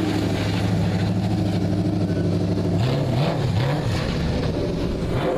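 Motor vehicle engine running steadily; about three seconds in, its pitch dips and rises a few times.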